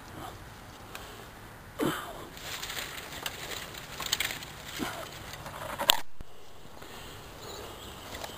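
Dry sticks and brush cracking and rustling in several separate bursts, with the sharpest snap about six seconds in.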